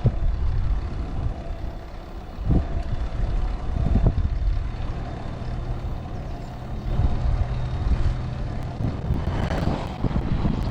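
Wind rumbling and buffeting over the microphone of a camera moving along a cycling course, played back sped up, with a few brief gusts.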